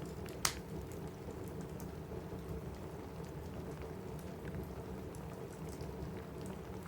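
Steady rain on a roof with a low, continuous rumble of distant thunder underneath, and scattered small crackles from a wood fire; one sharp pop about half a second in.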